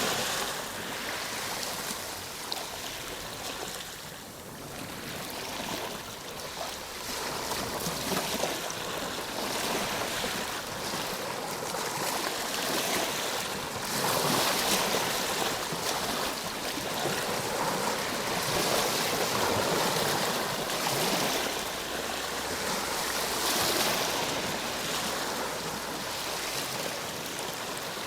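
Ocean waves breaking, a rushing surf that swells and eases every few seconds.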